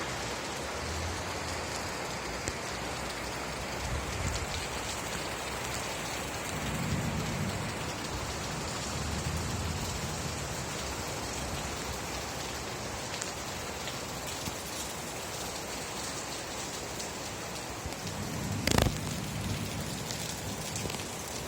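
Steady rain falling, with a few soft low rumbles under it and one sharp crack near the end.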